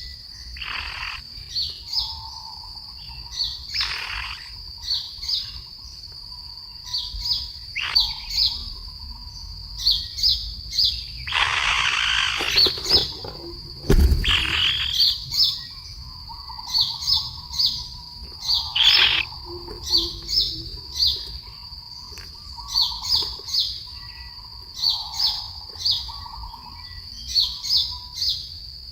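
Birds chirping in many short repeated notes over a steady high-pitched drone, with softer, lower calls between them. A rustling rush comes about twelve seconds in, followed by a single sharp thump.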